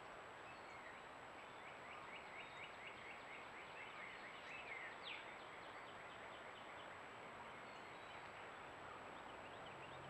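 Faint wild birdsong over a steady hiss: a quick run of short repeated chirps, about four a second, ending in one sharp falling note about five seconds in, then a few scattered faint notes.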